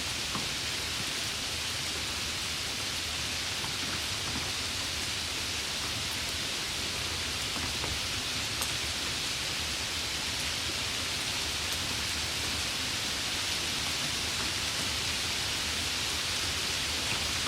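Steady rain falling: an even, unchanging hiss with a few faint drop ticks.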